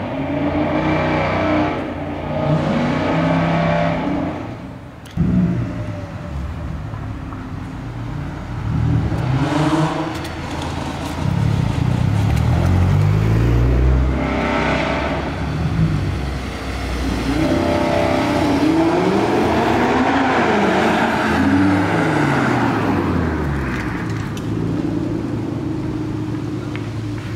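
Several performance cars pulling away one after another, their engines revving and accelerating, each rising and falling in pitch as it goes by. There is a sudden sharp jump in loudness about five seconds in.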